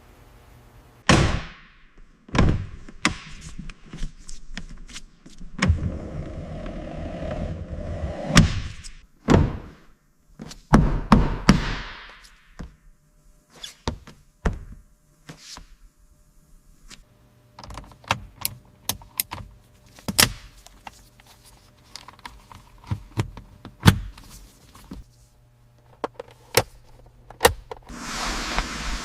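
Irregular series of knocks, clunks and sharp clicks, with a few short stretches of rushing noise in between.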